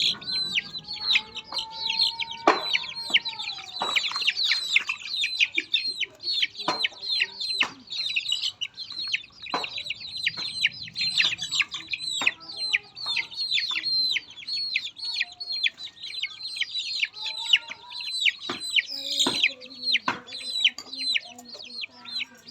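A dense flock of poultry chicks peeping nonstop in many overlapping short, high calls that fall in pitch, with a few sharp knocks among them.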